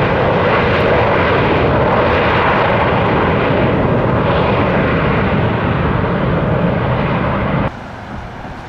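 Aircraft engines running loud and steady as an aeroplane passes close by the runway. Near the end the sound cuts off suddenly, leaving a much quieter background.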